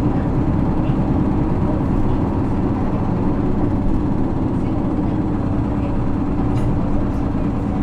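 Isuzu 6HK1 inline-six diesel of a 2009 Isuzu PKG-LV234L2 city bus running, heard from inside the passenger cabin as a steady, even drone with no gear changes or revving.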